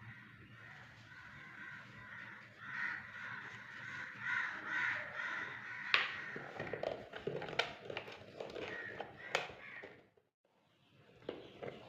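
Crows cawing repeatedly, with a few sharp clicks or knocks in the second half. The sound drops out briefly near the end.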